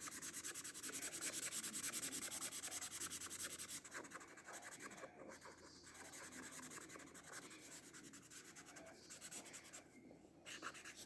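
Bullet-nib acrylic paint marker scratching across mixed media paper in rapid, faint colouring strokes. The strokes are busiest in the first few seconds, with brief pauses.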